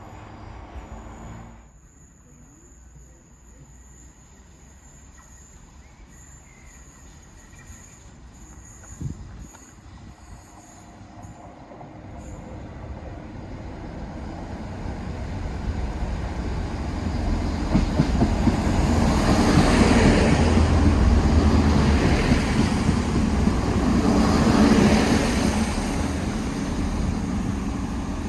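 A train approaching and passing: a low rumble and rushing of wheels on rail grow steadily from about halfway through, are loudest in the last third, then begin to ease.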